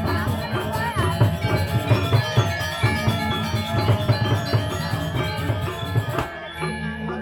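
Balinese gamelan playing: bronze metallophones ringing in interlocking strokes over drums. The ensemble eases off a little near the end.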